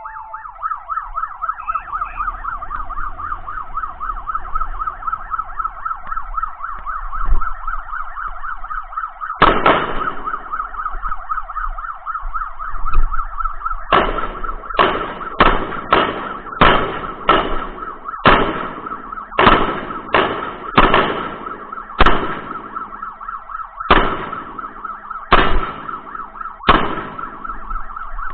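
An emergency-vehicle siren warbling steadily and fast. From about nine seconds in, gunshots cut across it: a single shot, then a string of a dozen or so about a second apart.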